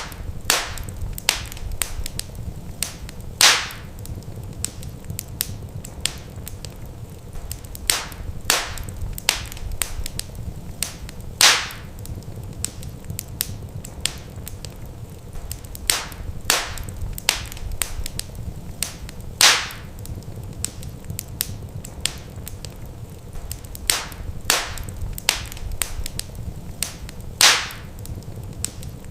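Wood fire crackling in a fireplace: a steady stream of small sharp pops and snaps over a low, even rumble, with a louder pop about every eight seconds.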